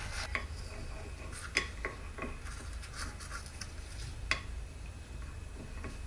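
Small metal parts clinking and ticking as they are handled, a handful of sharp light clicks with a brief metallic ring, the loudest about one and a half and four seconds in.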